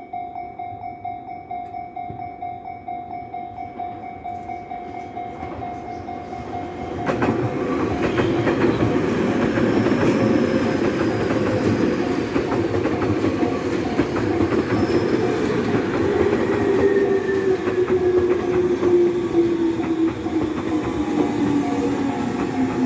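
Japanese level-crossing warning bell ringing in a steady, regular pulse. About seven seconds in, a Tobu Tojo Line electric train comes through, loud over the bell: rumble and wheel clatter, with a whine that falls slowly in pitch.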